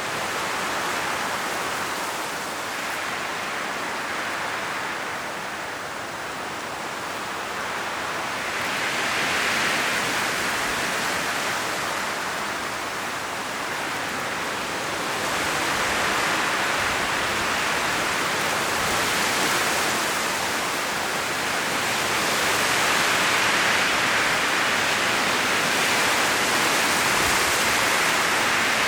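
Strong wind blowing through an autumn forest, rustling the dry leaves in the trees. It comes as a steady rush that swells and eases in gusts every few seconds, growing a little louder in the second half.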